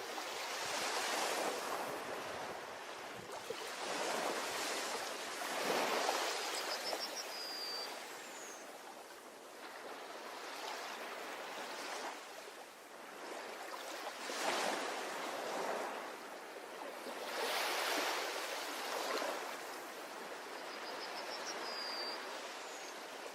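Ocean waves washing onto a beach, the surf swelling and falling back every few seconds. A brief high chirp sounds twice.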